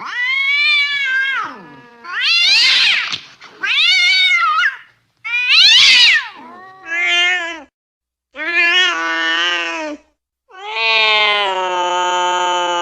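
Domestic cat yowling angrily: a series of about seven drawn-out wailing meows that rise and fall in pitch, the last one long and held steady.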